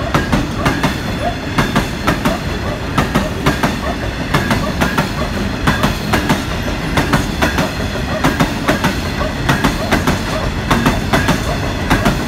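A freight train of hooded steel-coil wagons rolling past at speed. Its wheels clatter over the rail joints in a steady clickety-clack, a few sharp clicks every second, over a continuous rumble.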